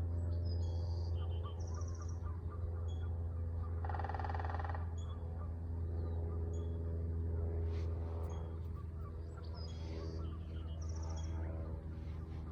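Birds chirping and calling: many short, high chirps, with a louder, lower call lasting under a second about four seconds in, over a steady low hum.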